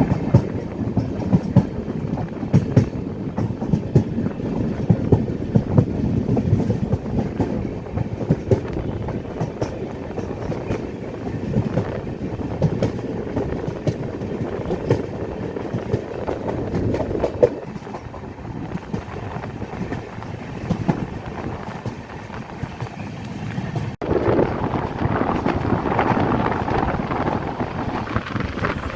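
Swaraj Express passenger train running, a low rumble with its wheels clattering over the rail joints. About 24 seconds in the sound cuts abruptly to a steadier rushing noise.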